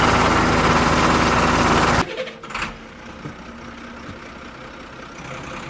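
A tractor engine running steadily with an even pulsing beat, cut off suddenly about two seconds in, leaving a much quieter background with a few faint clicks.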